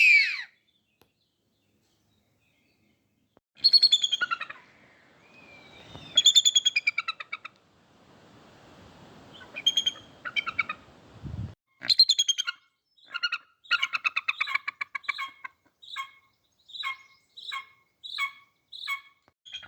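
A bird of prey calling: a string of harsh, rapidly pulsed calls. They start as longer calls, then become short calls repeated about every half second over the last few seconds.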